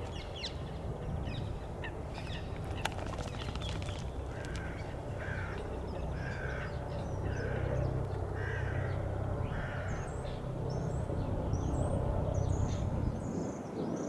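A bird giving a run of about eight harsh, evenly spaced calls, roughly one every 0.7 seconds, starting about four seconds in. Higher, shorter chirps and whistles follow near the end, over a steady low rumble.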